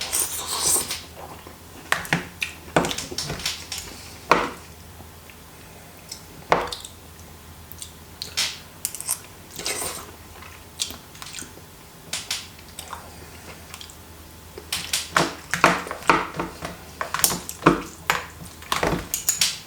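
Eating sounds: chewing, with scattered short clicks and taps of chopsticks and a spoon against the dish, coming thicker in the last few seconds.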